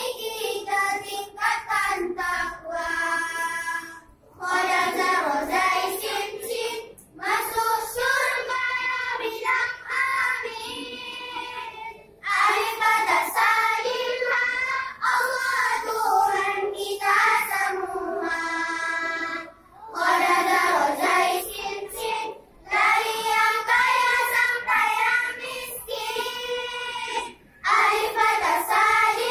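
Children's choir singing an Islamic choral song, in phrases broken by brief pauses.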